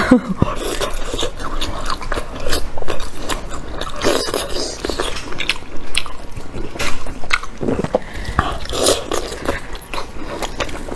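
Close-up eating sounds: someone biting into food and chewing, with irregular wet clicks and smacks.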